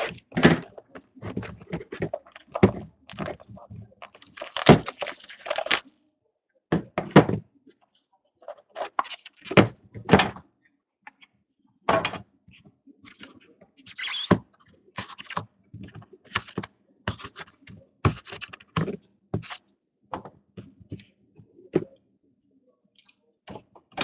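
Trading cards and card packs being handled on a table: an irregular string of short taps, knocks and rustles.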